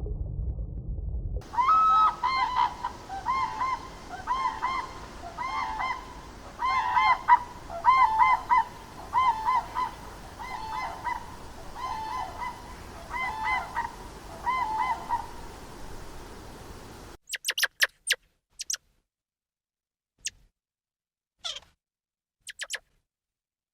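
A bird honking repeatedly, in quick runs of paired calls. After a sudden cut, a few short, very high squeaks and clicks follow.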